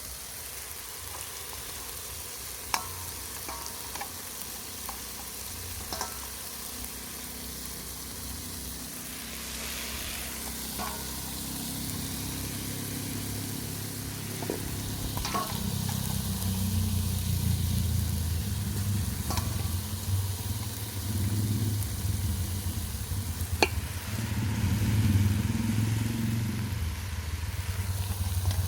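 Food sizzling as it fries in a pot, with a few sharp utensil clicks. A low rumble builds through the second half.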